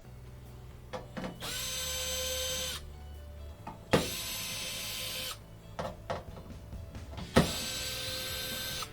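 A cordless power drill or driver runs in three short bursts of about a second and a half each, a steady whine that starts with a sharp click each time.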